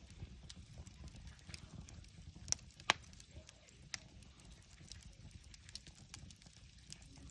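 Wood campfire crackling, with irregular sharp pops and snaps, the two loudest about two and a half and three seconds in, over a steady low rumble.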